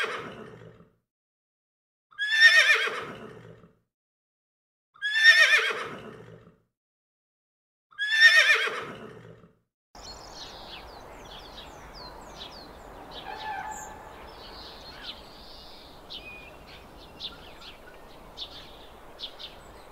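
A horse neighing: three loud whinnies about three seconds apart, each falling in pitch. About ten seconds in they give way to a much quieter steady hiss with short high chirps and clicks.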